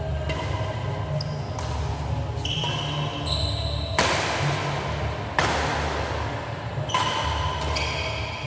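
Badminton rally: sharp racket hits on the shuttlecock about every second and a half, loudest about four, five and a half and seven seconds in, with short high squeaks between them and a steady low hum underneath.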